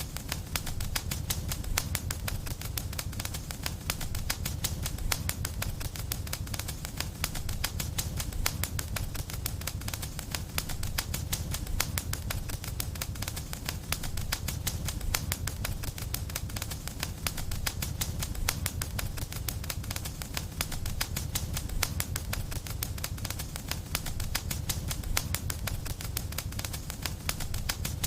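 Wood fire in a fireplace crackling steadily, with many small pops close together over a low rumble.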